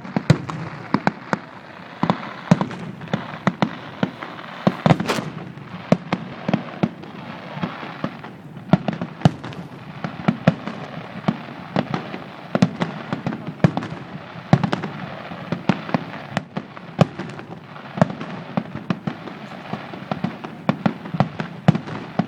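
Fireworks display: a dense, irregular barrage of sharp bangs and cracks, several a second, over a continuous crackle.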